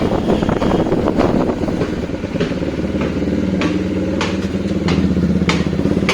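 Bajaj Dominar 400's 373 cc single-cylinder engine running under way through a newly fitted aftermarket exhaust, with a steady, pulsing exhaust note. Several short sharp clicks come over it, spaced roughly every half second to second.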